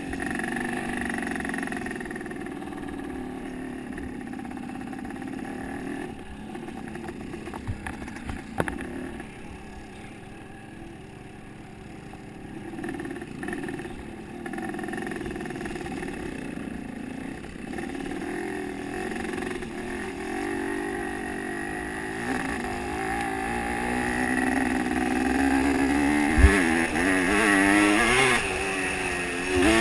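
Motocross bike engines running and revving, their pitch rising and falling, getting louder over the last few seconds, with a few short sharp knocks.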